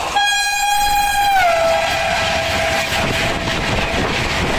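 Electric locomotive horn sounding one long note as the locomotive passes at speed, its pitch dropping about a second and a half in as it goes by. Under and after it, the loud steady rush of the train's coaches speeding past.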